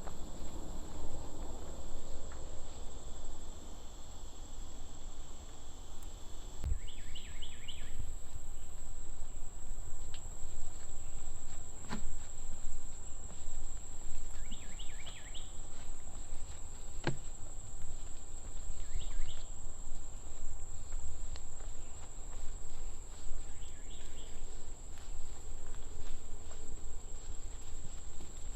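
Steady high-pitched insect drone, crickets or similar, with short groups of chirping calls four times, over a constant low rumble.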